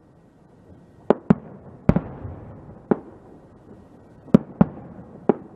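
Aerial firework shells bursting overhead: about seven sharp bangs at uneven intervals, some in quick pairs.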